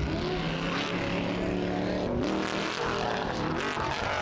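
Several race vehicle engines running at once at different pitches, revving up and down, one rising sharply about two seconds in.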